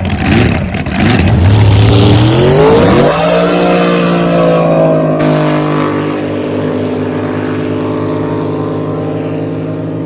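Drag boat engine blipping the throttle in quick rises and falls, then opening up hard. Its pitch climbs for about a second, then holds high and steady while slowly fading as the boat runs away down the course.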